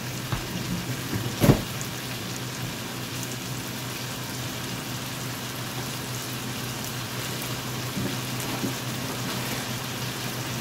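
Corn, onion and red bell pepper frying in a skillet: a steady sizzle, with a low hum underneath and a single knock about a second and a half in.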